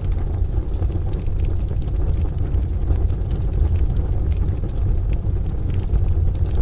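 A crackling wood-stove fire, with irregular sharp pops and ticks, over a low, steady rumble from a rain-and-thunder ambience.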